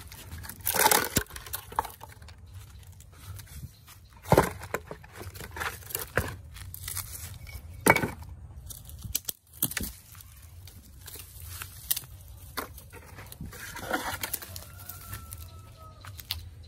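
Irregular handling noises: scattered sharp clicks and short crackling, scraping bursts over a low hum.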